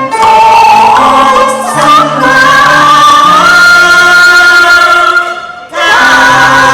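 Cantonese opera song: sung melody with long held, gliding notes, group voices singing harmony and instrumental accompaniment. The music drops away briefly near the end and then comes back in.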